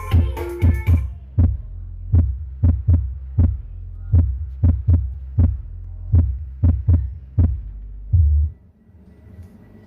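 Music through a sound system with 18-inch and 12-inch speakers. After about a second the track drops to a bare kick drum thumping about twice a second over a steady deep bass hum. Near the end it goes briefly quiet.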